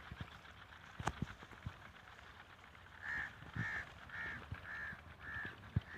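A bird calling five times in an even series, about one call every 0.6 s, starting about three seconds in. A single sharp click comes about a second in, with soft footfalls on the field throughout.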